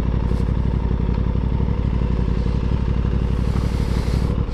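Aprilia Tuono 660's parallel-twin engine running steadily at an even speed.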